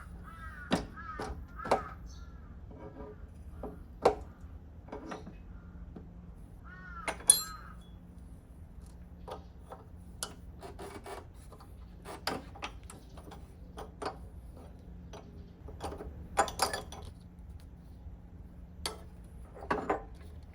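Scattered metal clinks and knocks of tools and parts being handled, with a crow cawing several times around the start and again about seven seconds in, over a steady low hum.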